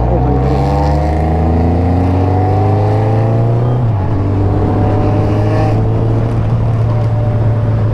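Suzuki Hayabusa motorcycle engine running on the road, its pitch climbing as it accelerates through the first half. About four seconds in it drops, as at a gearshift, then runs steady.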